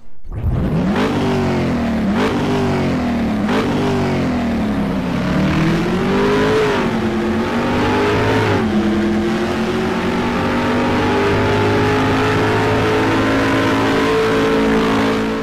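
Car engine accelerating hard through the gears: the revs climb and drop back at each upshift, four quick shifts in the first few seconds, then a longer pull and a steady high-speed run at high revs.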